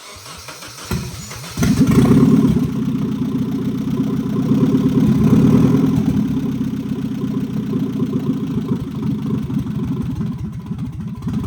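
1989 Nissan 240SX's 2.4-litre four-cylinder engine cranking on the starter, catching about a second and a half in and briefly louder as it picks up, then running steadily on freshly corrected ignition timing.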